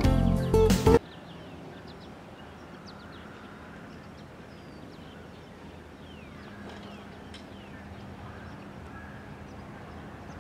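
Acoustic guitar music cuts off about a second in, leaving outdoor ambience with birds chirping. From about halfway a faint, steady low hum is also heard.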